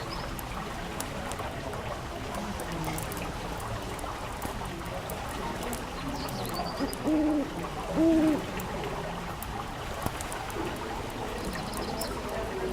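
Fireplace fire burning with a steady hiss and faint scattered crackles. Two short, low bird calls that rise and fall come about seven and eight seconds in.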